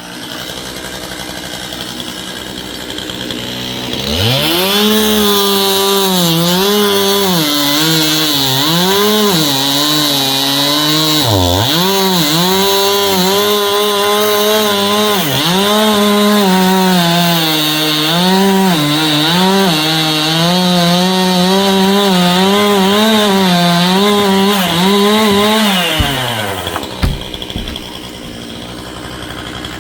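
Two-stroke chainsaw opened up to full throttle about four seconds in and cutting wood, its engine pitch repeatedly sagging and recovering as the chain bites under load. It winds down near the end.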